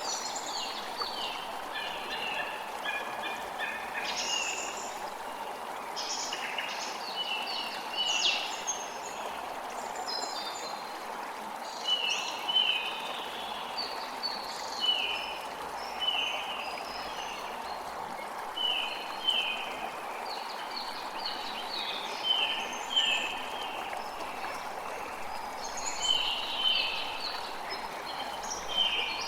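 A creek running steadily, with songbirds calling over it in many short, quick, mostly falling chirps that come and go throughout.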